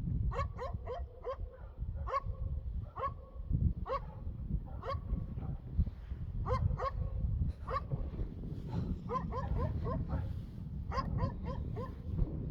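Repeated short, pitched animal calls, many in quick clusters of two to four, over a steady low rumble.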